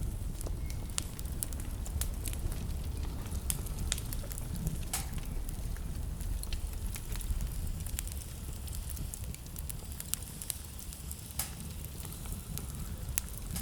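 Wood burning in a fireplace, crackling with scattered sharp pops over a steady low rumble.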